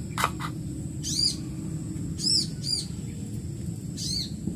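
A bird chirping: four short, high, arched notes, one or two at a time, over a steady low background rumble.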